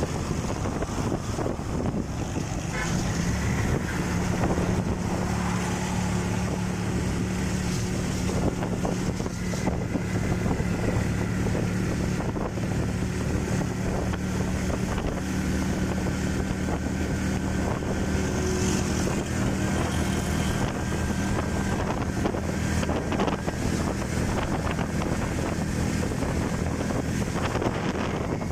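Vehicle driving through heavy rain: a steady low engine and road drone under a continuous hiss of rain.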